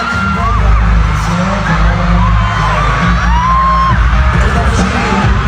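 Loud pop music over a concert sound system with a heavy bass beat, and a crowd of fans screaming over it.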